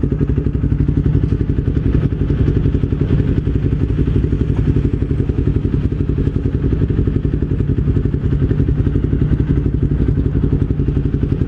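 Motorcycle engine running at a steady speed, a low pulsing drone that holds one pitch with no revving.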